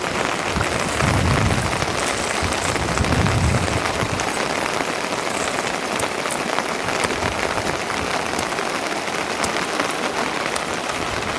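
Steady rain falling and pattering, a dense even hiss with fine drop ticks, with a few low rumbling swells in the first few seconds.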